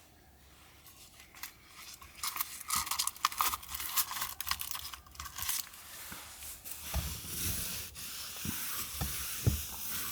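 Rustling and crinkling, like fabric or packaging being handled, with many small clicks and some soft thumps in the second half.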